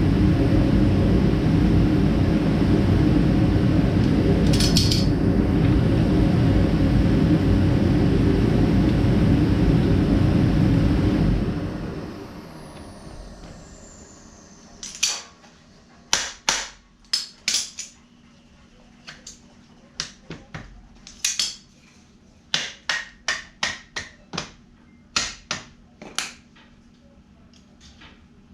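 A loud electric fan runs steadily, then is switched off about eleven seconds in and spins down with a falling whine. After that comes a run of sharp metal clinks and clanks from tools and scooter parts being handled.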